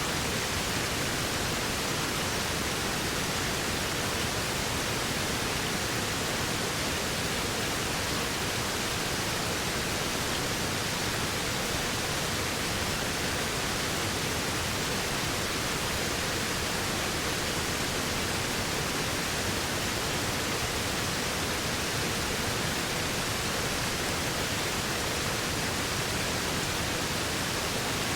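Waterfall: a steady, even rush of falling water with no change or break.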